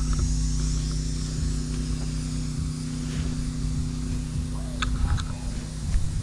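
Steady low machine hum with a few light clicks about five seconds in.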